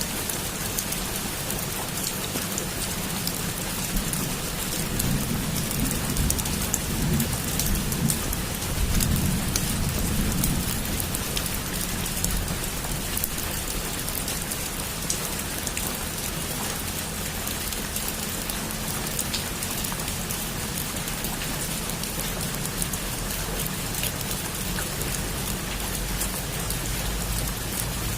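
Heavy rain falling steadily, a dense hiss of drops on surfaces, with a low rumble of thunder swelling between about four and eleven seconds in.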